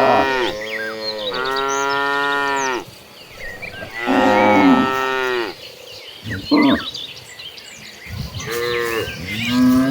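Cattle mooing: several cows giving long, drawn-out moos one after another, about five calls, some overlapping at different pitches.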